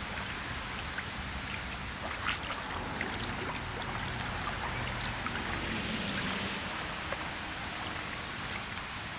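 Steady rain falling, with scattered individual drops ticking and rainwater running.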